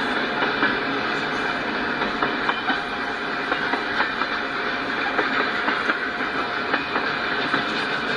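Freight train cars rolling past: a steady rumble of steel wheels on the rails, broken by frequent irregular clacks as the wheels pass over the track.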